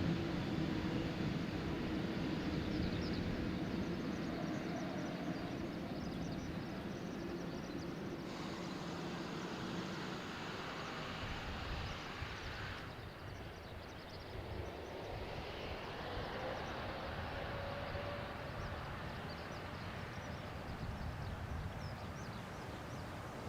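Jet airliner engines after takeoff: a steady rumbling rush that slowly fades as the aircraft climbs away.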